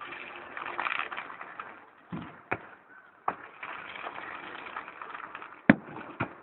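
Fireworks crackling, with scattered pops and cracks and one sharp bang near the end.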